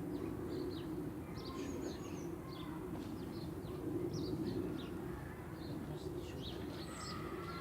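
Small birds chirping: many short, high chirps, several a second, over a steady low background hum.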